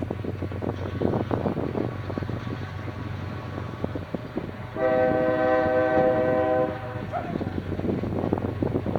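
Locomotive air horn sounding one chord blast of about two seconds, midway through, over the steady rumble of a train.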